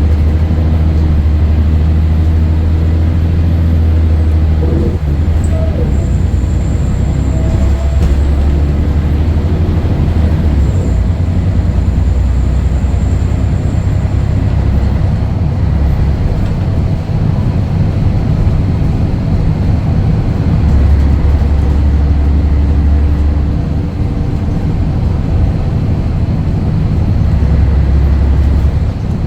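Scania DSC11 diesel engine of a Scania L113CRL city bus running under way, a loud low drone that swells at times.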